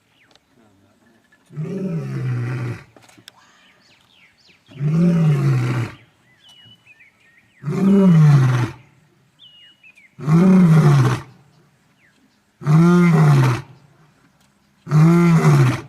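Six loud calls from a large wild animal, each about a second long and rising then falling in pitch, repeated at an even pace. Faint bird chirps come between them.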